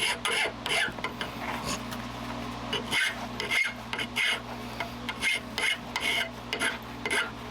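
Hand file rasping back and forth across the end of a forged steel hook held in a vise, taking off a rough folded-over edge. The strokes come about two or three a second, with a short pause after about a second before they pick up again.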